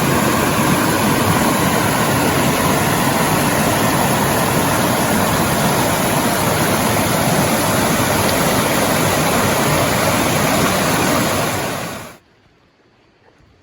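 Waterfall, a loud steady rush of falling water, which cuts off suddenly near the end.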